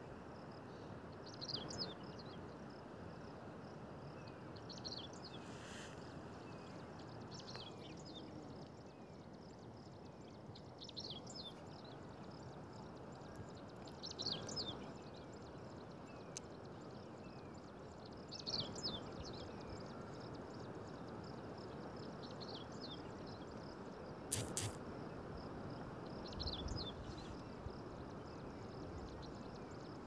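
Open-air mountain ambience: a steady low rushing noise, with a small bird giving short bursts of chirps every few seconds and a faint insect-like hiss behind it. One sharp click about three-quarters of the way through.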